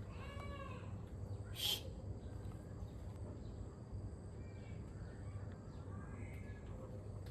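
Birds calling over a steady low hum, with a pitched call near the start, a short sharp louder sound just under two seconds in, and a few faint short calls later on.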